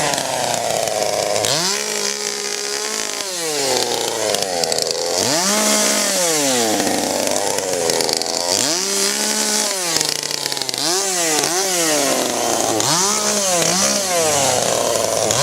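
A two-stroke chainsaw revved again and again: each rev climbs, holds briefly and falls back to idle, every two to three seconds, with a run of quicker short blips about two-thirds of the way through.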